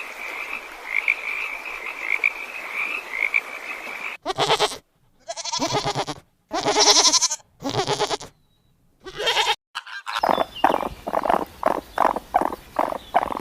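Animal sound clips spliced one after another. First a pulsing frog chorus for about four seconds, then five short separate animal calls cut apart by silences. About ten seconds in comes a hen clucking rapidly, about four or five clucks a second.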